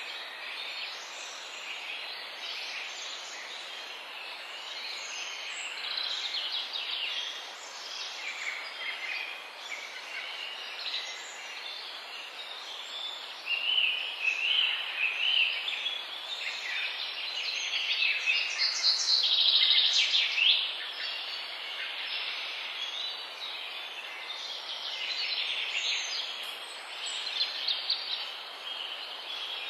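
Several birds singing and chirping at once over a steady background hiss, a dense chorus of warbles and short calls that is loudest about two-thirds of the way through.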